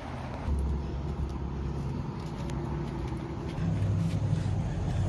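Motor vehicle engine running with a low steady hum, growing louder and slightly higher about three and a half seconds in.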